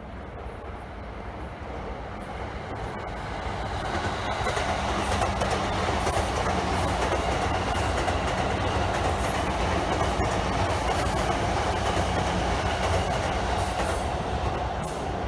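Train running on rails: the wheel and rail noise grows over the first five seconds, then holds steady, with scattered clicks of wheels over rail joints.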